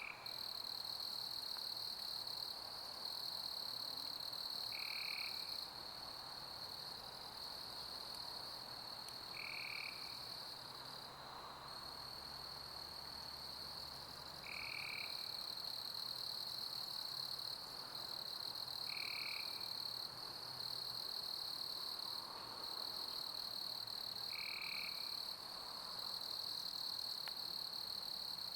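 Crickets chirping in a steady, high, continuous chorus, with a short lower call about every five seconds and a soft even hiss underneath.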